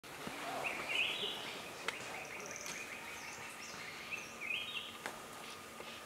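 Wild birds singing: two bursts of quick, stepped whistled phrases, about a second in and again about four and a half seconds in, over high thin chirps, with two sharp clicks in between.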